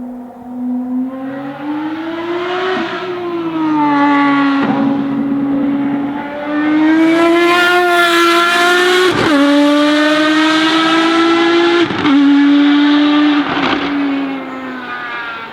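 Ferrari FXX Evoluzione's V12 accelerating hard through the gears. The pitch climbs, then drops sharply at each of about five upshifts. It is loudest in the middle and falls away near the end.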